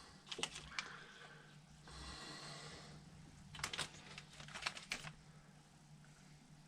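Faint clicks and taps of small carburetor parts and hand tools being handled during a rebuild, in a few scattered groups, with a soft hiss for about a second near the middle over a low steady hum.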